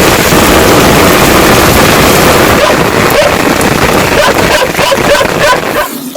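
Heavy monsoon rain pouring, a loud steady hiss that cuts off abruptly near the end.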